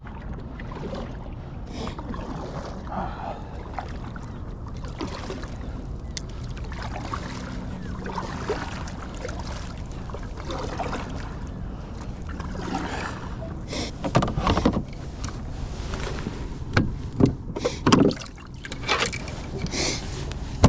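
Hobie Pro Angler 12 plastic fishing kayak being launched and handled on the water: a steady low noise runs throughout, and a cluster of knocks and bumps comes in the last few seconds.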